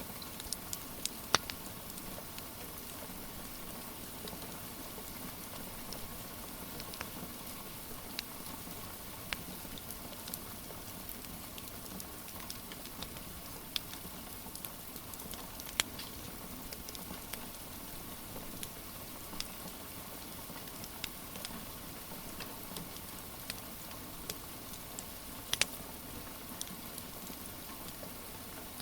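Steady rain with a wood fire crackling over it: irregular sharp pops and snaps, a few of them louder, near the start and again toward the end.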